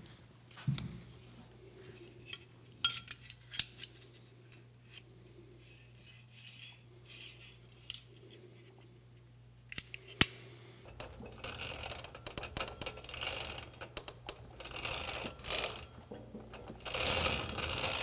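Hand work on a minibike's centrifugal clutch: a few sharp metallic clicks and clinks, then from about eleven seconds in a busy run of ratchet-like clicking and clattering that is loudest near the end.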